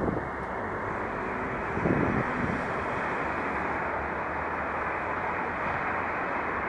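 British Rail Class 150 Sprinter diesel multiple unit passing, a steady running noise with a couple of low thumps in the first two seconds.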